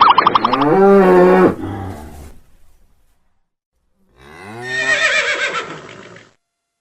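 An animal calling twice in drawn-out, pitched calls: the first low and steady for about a second before it fades, the second starting low and rising with a wavering pitch. A warbling trill ends about half a second in.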